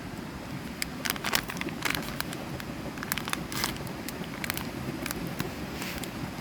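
Steady rush of flowing river water, with a scatter of sharp, irregular clicks and crackles over a few seconds in the middle.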